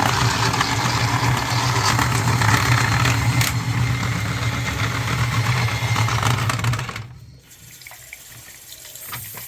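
Milwaukee powered drain auger running forward, its motor humming steadily as the cable spins down a clogged sink drain. It stops about seven seconds in.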